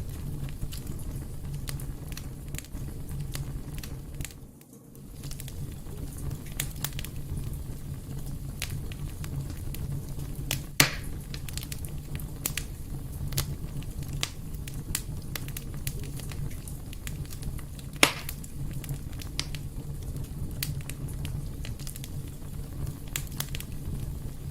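Wood fire crackling, with many small sharp crackles over a steady low rumble and two louder pops about 11 and 18 seconds in. The sound briefly drops quieter about five seconds in.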